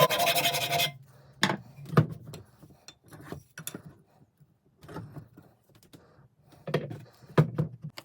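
Sanding noise on the old metal cobbler's hammer, a steady rasping that stops about a second in. Scattered light clicks and knocks of handling follow.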